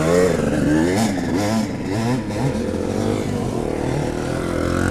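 Dirt bike riding, its pitch rising and falling again and again as the throttle is opened and closed.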